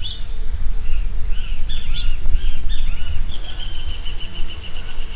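Small birds chirping in short, arched notes, then about three seconds in one starts a rapid, even trill of repeated notes. A low rumble runs underneath.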